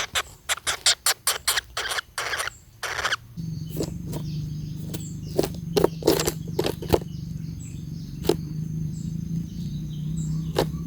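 Woodpeckers at their nest hole in rotten wood: a quick run of short rasping strokes, several a second, for about three seconds. Then a steady low hum comes in, with scattered sharp taps and faint high chirps.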